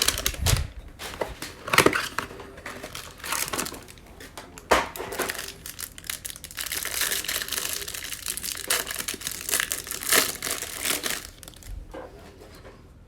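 Trading-card hanger box packaging, cardboard and plastic wrap, being torn open and crumpled by hand: irregular crinkling and crunching, loudest near the start.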